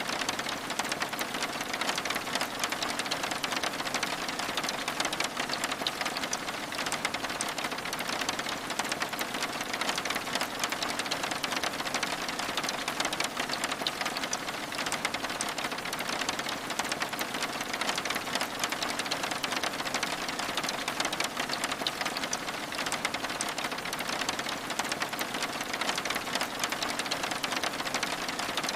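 Steady rain on window glass: a dense, even patter of many small drop hits with no pauses or changes.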